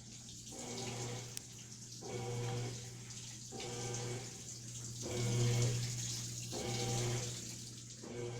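Washing machine running: water sloshing with a low hum, swelling and fading in a steady rhythm about every one and a half seconds as the drum turns back and forth.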